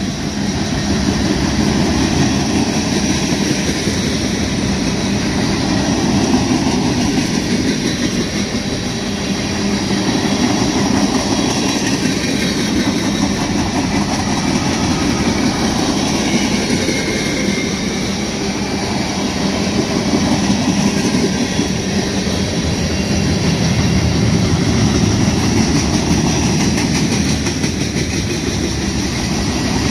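Freight cars of a mixed manifest train rolling past at close range: a loud, steady rumble of steel wheels on rail that swells and eases every several seconds.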